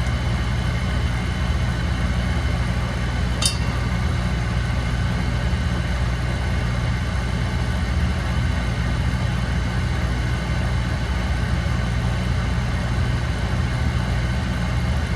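Residential oil burner firing steadily into the boiler just after ignition, a continuous low hum of burner motor, fan and flame. A single sharp click about three and a half seconds in.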